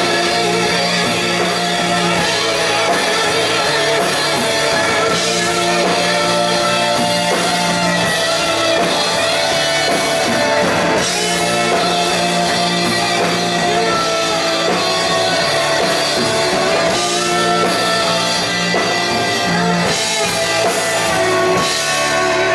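Live rock band playing loudly with electric guitars, bass and drum kit, with some singing.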